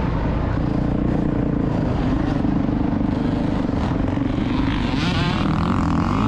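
Motocross dirt bike engine running loud and steady under throttle, with a higher engine note rising in about five seconds in.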